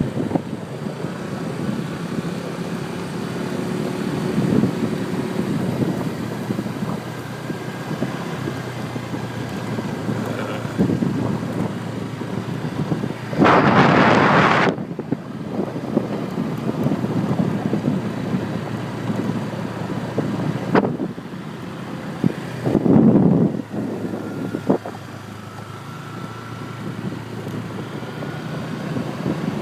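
Motor scooter ride: a steady engine hum under wind noise on the microphone, with two louder bursts of rushing noise, one about a second long near the middle and a shorter one later.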